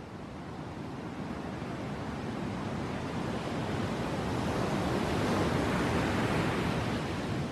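Ocean surf: a wave rushing in, swelling steadily to a peak about five or six seconds in and then beginning to draw back.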